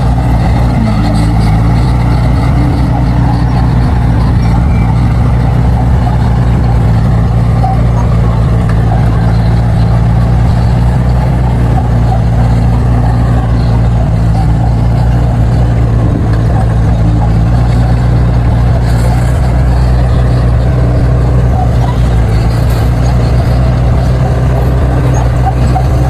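Bulldozer's diesel engine running steadily, a constant low drone with no pauses or sharp knocks.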